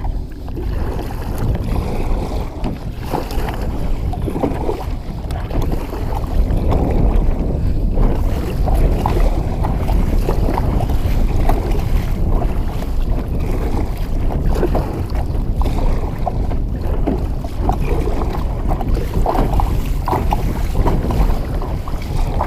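Gusty wind buffeting the microphone in a low, steady rumble, with choppy water splashing irregularly around a small kayak.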